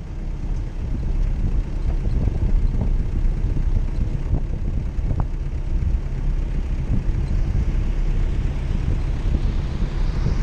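Jeep Cherokee's engine running off-road with a loud, uneven low rumble. Toward the end a rising hiss joins in.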